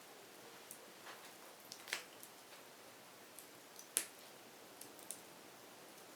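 Wood fire crackling: a soft steady hiss with scattered sharp pops, the two loudest about two and four seconds in.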